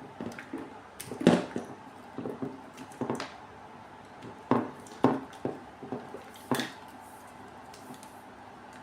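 Handling noise: about a dozen irregular knocks and clicks as equipment parts are moved about and set down, over a steady faint hum.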